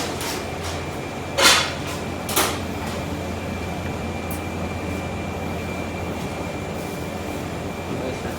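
A steady mechanical hum with a thin high whine above it. Three short rustling or knocking noises break through it, the loudest about a second and a half in.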